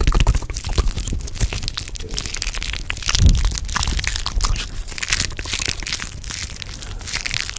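Layered ASMR trigger sounds: dense, irregular crackling and crunching, like material being crumpled or crushed, with a louder dull thump about three seconds in.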